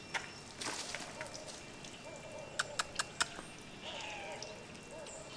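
Outdoor yard ambience with a bird calling again and again, and four quick sharp clicks about halfway through.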